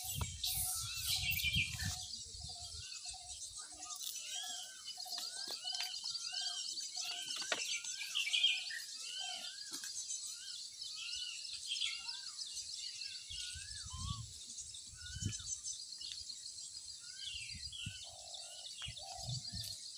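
Birds calling: many short whistled notes that rise and fall, repeated over and over, above a steady high hiss of outdoor background. A low rumble sounds in the first two seconds and again briefly past the middle and near the end.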